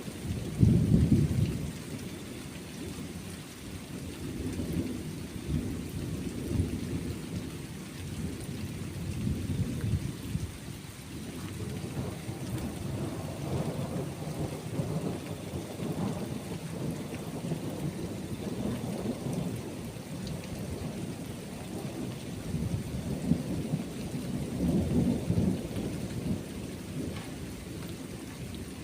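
Steady rain falling, with rolling thunder rumbling low underneath. The loudest rumble comes about a second in, further rolls follow through the middle, and another swells near the end.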